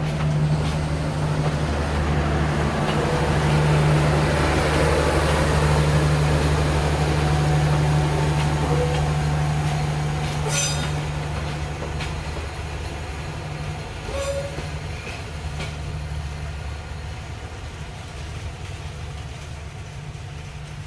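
A train passing at low speed, led by a diesel locomotive whose engine makes a steady low drone. The drone is loudest about four to eight seconds in, then fades away, with a couple of sharp clicks near the middle.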